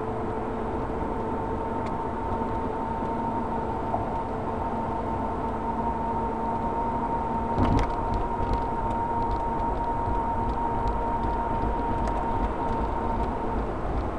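Car interior noise while driving: a steady low rumble and road hiss, with a faint steady whine that fades out near the end. A short knock sounds about eight seconds in.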